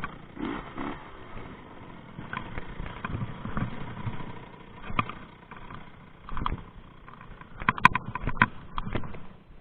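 Rieju MRT 50 two-stroke dirt bike running while ridden off-road, its engine a faint steady tone under a series of irregular sharp knocks and rattles. The knocks cluster near the end.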